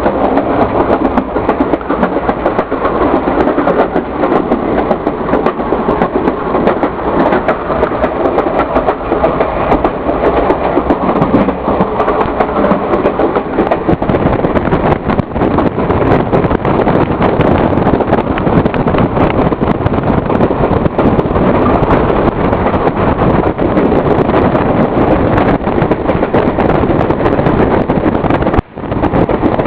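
Passenger train running along the tracks, heard from aboard its caboose: a steady rumble of wheels on rail with scattered clicks and rattles. The low rumble gets louder about halfway through, and the sound cuts out for a moment near the end.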